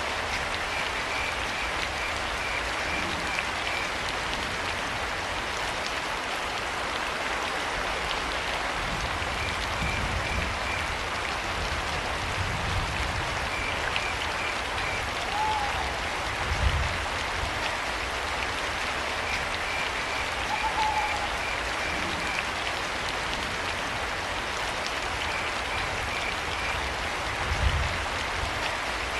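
Steady rainfall, with crickets chirping in short pulsed trills every few seconds. Twice near the middle a brief call that rises and falls, and a couple of low thuds.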